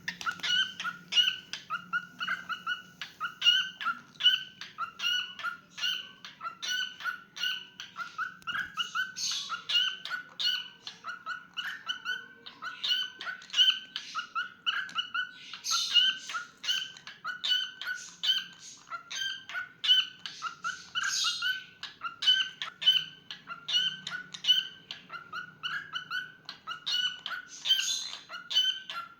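Cockatiel singing: a steady run of short, repeated pitched chirps, two or three a second, with a few harsher, scratchier notes mixed in.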